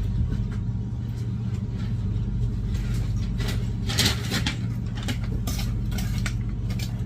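A steady low engine hum, like a motor idling, with short rustles and light clatters that are densest about four seconds in.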